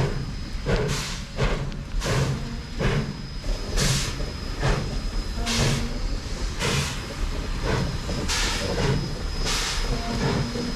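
Southern Pacific narrow-gauge Baldwin 4-6-0 No. 18 steam locomotive working slowly while hauling locomotive No. 9: steady exhaust chuffs about one a second over a low rumble and hiss of steam.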